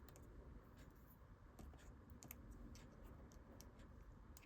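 Near silence: quiet room tone with a few faint, short clicks scattered through it, as of small craft materials being handled on a desk.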